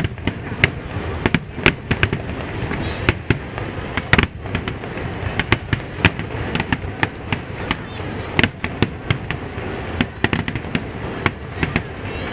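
A dense barrage of aerial firework shells bursting, many sharp bangs a second in an uneven rhythm over a continuous background of noise. One bang about four seconds in stands out as the loudest.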